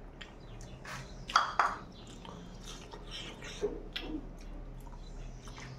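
A person chewing a mouthful of cooked pork, a string of small irregular clicks with two sharper ones about a second and a half in.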